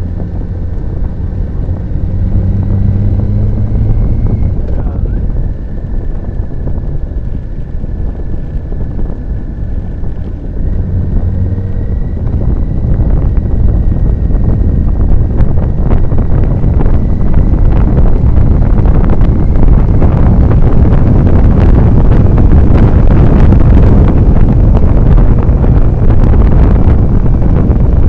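Motorcycle engine running on the move, its low drone heard over wind buffeting the microphone. After about twelve seconds the wind noise swells and drowns out the engine.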